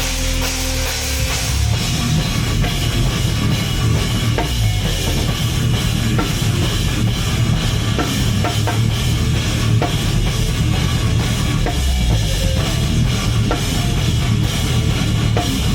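Heavy band playing live and loud, the drum kit to the fore with fast bass drum hits and crashing cymbals; the drumming kicks in about a second and a half in.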